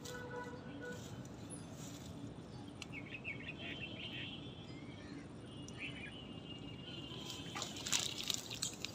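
Birds chirping faintly over a steady low outdoor background hum. A few sharp clicks come near the end.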